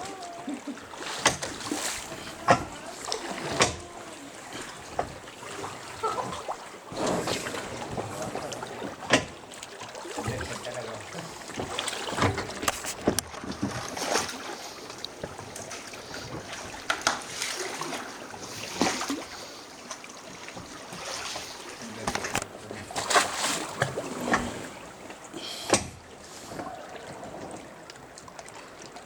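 Water splashing around a river raft, with sharp splashes coming every second or two over a steady rush of river water.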